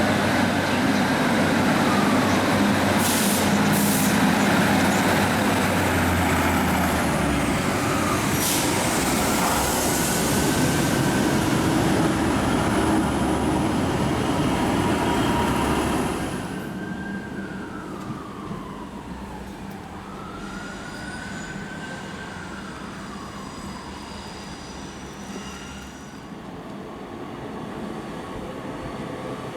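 A passenger train running at a station platform, with a loud steady rumble and whining tones that rise and fall in pitch. The rumble drops away suddenly about halfway through, leaving the whines fainter.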